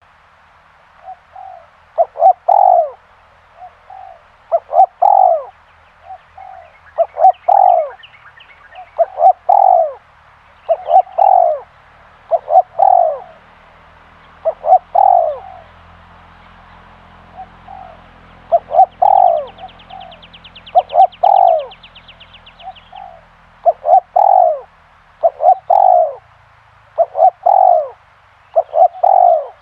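Spotted dove cooing: a repeated phrase of a few short notes running into a longer coo, given over and over about every two and a half seconds.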